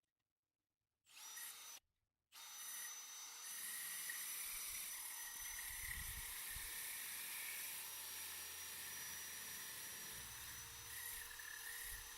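Power drill turning a diamond core bit at low speed, without hammer action, grinding into brick. A short start about a second in, then steady drilling with a high whine.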